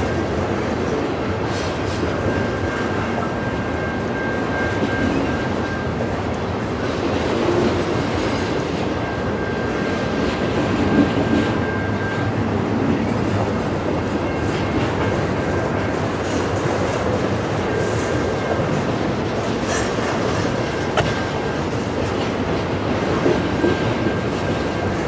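Double-stack container well cars of a freight train rolling past: a steady rumble of steel wheels on the rails with occasional sharp clicks, and a thin high whine that comes and goes.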